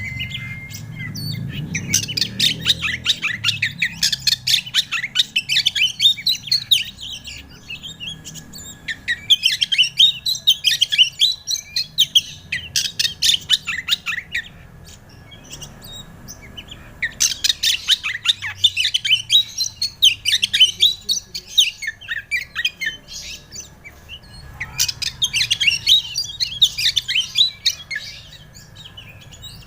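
Oriental magpie-robin (kacer) singing a lure song in four long bouts of fast, varied chirps and whistles, with short pauses between bouts. A faint steady high tone runs underneath.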